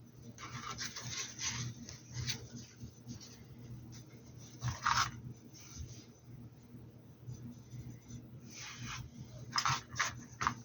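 Paintbrush strokes scratching and rubbing against a hat in short, irregular strokes, a few louder ones about five seconds in and near the end, over a faint steady low hum.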